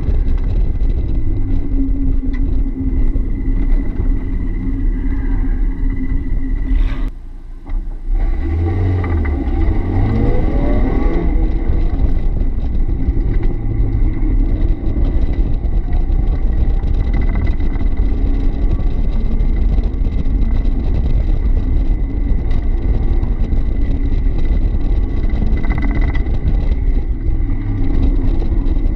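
1990 Mazda Miata's 1.6-litre four-cylinder engine running hard on an autocross run, heard from the open cockpit. About seven seconds in the sound dips briefly, then the engine note climbs as the car accelerates again.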